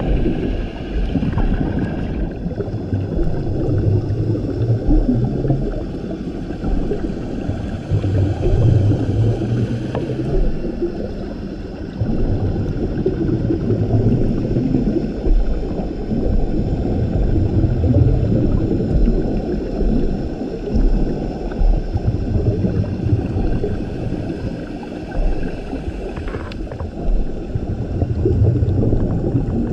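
Scuba diver breathing through a regulator underwater: a steady low rush with a rumble of exhaled bubbles every four to five seconds.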